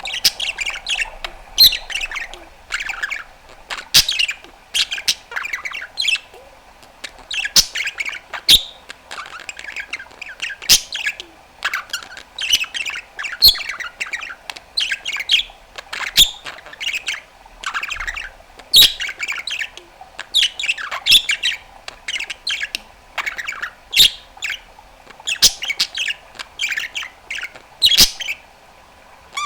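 Pet budgerigar chattering and warbling: a fast, irregular stream of short squawks, chirps and trills, broken by many sharp clicks.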